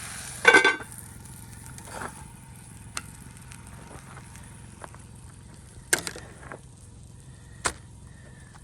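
Campfire cooking: a loud, short clatter of cookware about half a second in, as the sizzling stops. Then scattered sharp pops and clicks from the campfire over a low background.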